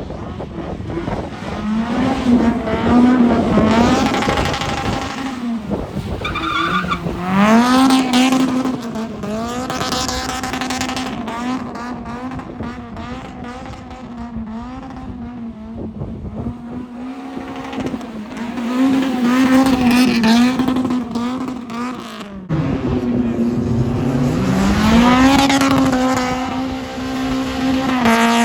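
A drift car's engine running hard at high revs, its pitch held mostly steady with repeated dips and climbs back as the throttle is worked through the slides. Tyre skid noise runs under it.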